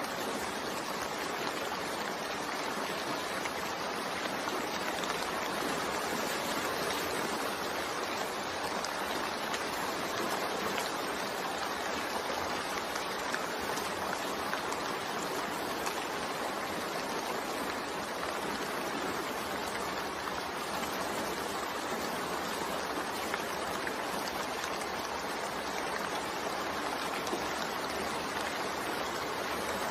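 Steady rain falling, an even hiss of drops with no change throughout.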